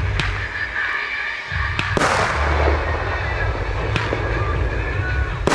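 Fireworks going off: a series of sharp bangs, the loudest about two seconds in and another at the very end, each trailing off in a crackling, echoing tail.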